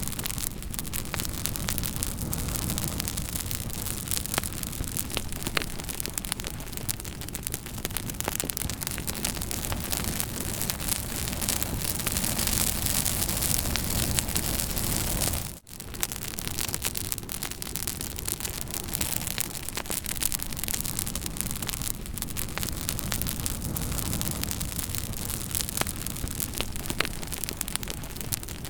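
Campfire burning with steady hissing and frequent sharp crackles and pops. The sound briefly drops out about halfway through, then resumes.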